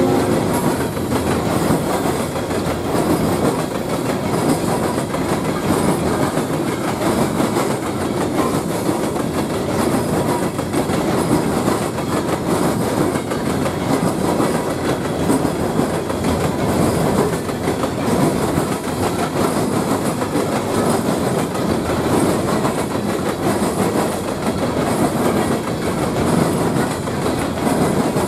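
Empty steel coal hopper cars of a freight train rolling past close by: a steady rumble of wheels on the rails, with continual clickety-clack.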